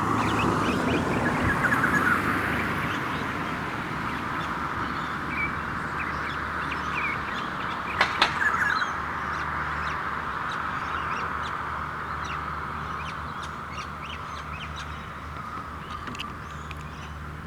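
Noisy miners giving one of their soft, subtle morning calls: a dense, steady chattering with scattered short chirps, slowly fading. A brief sharp sound cuts in about eight seconds in.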